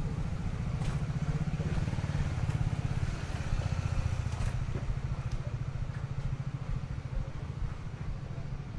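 A motorcycle engine running close by, a steady low rumble with a fast even pulse, with a few faint clicks over it.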